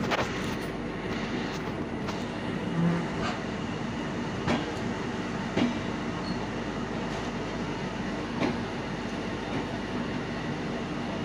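Passenger train coaches running on the track: a steady running noise broken by a few sharp wheel clacks, spaced a second or more apart.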